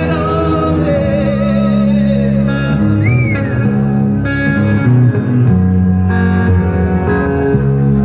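Live rock band playing loudly, with electric guitars and a sung vocal line.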